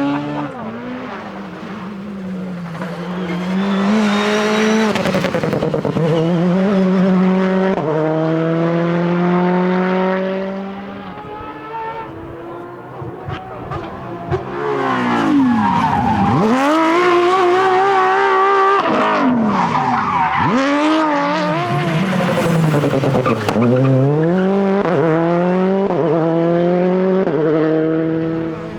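Rally cars at full throttle passing by. The engine note climbs in steps with each upshift and drops sharply as they brake and change down, several times over.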